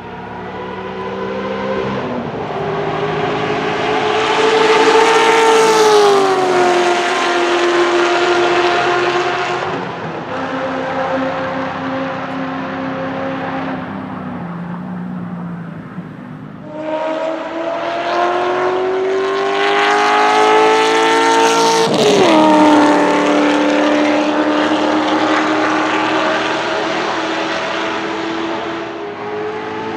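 Chevrolet Corvette C6 Z06's 7.0-litre LS7 V8 through side-exit exhaust pipes, driven hard at speed. It passes by twice, rising in pitch and loudness and then dropping in pitch as it goes past, about 6 and about 22 seconds in.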